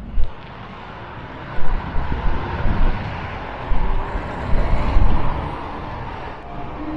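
Road traffic passing, a swell of tyre and engine noise that builds and peaks about four to five seconds in, with gusts of wind buffeting the microphone.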